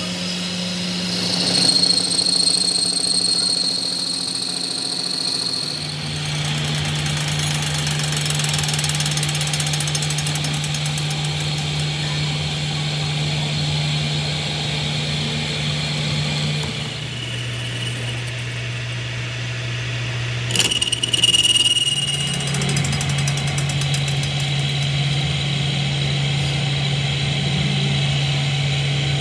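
A machine running steadily with a low hum and a high-pitched whine; the hum's pitch steps down and up a few times, and there is a short louder rattle about three-quarters of the way through.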